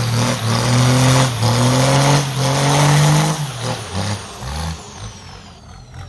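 Truck engine running at full throttle on a drag run, its pitch climbing in short steps, then dropping off about three and a half seconds in and fading away. A high whine falls in pitch near the end.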